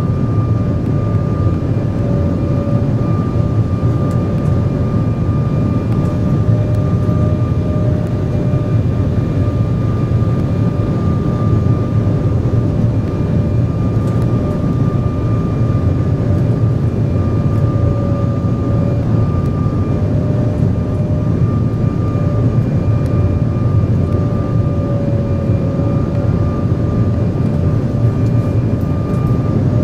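Cabin noise of an Embraer 175 airliner in flight: a steady rush of air and engine noise from its twin GE CF34 turbofans, with a steady whine over it.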